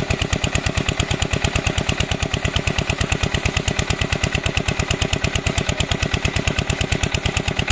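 Small diesel water-pump engine running steadily, with a loud, even exhaust beat of about nine beats a second.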